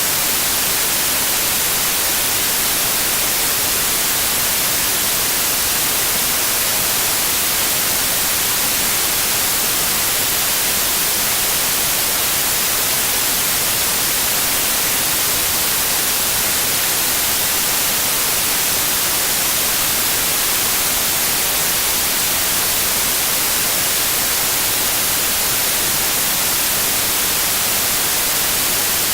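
Generated white noise: a steady, even hiss that does not change.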